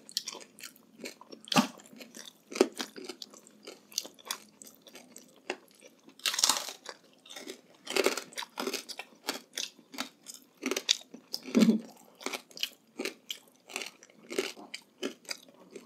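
Crispy chicharon bagnet (deep-fried pork belly with rind) being bitten and chewed close to the microphone: irregular crunches with wet chewing between, a few louder crunches about six and eight seconds in.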